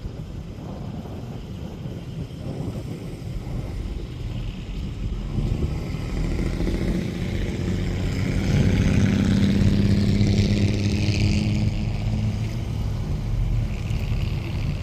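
A car engine running close by, its low note growing steadily louder to a peak past the middle and then easing off a little, like a vehicle driving slowly past.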